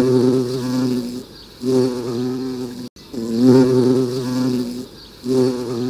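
Bee buzzing in repeated swells, each lasting one to two seconds and fading before the next, four passes in all.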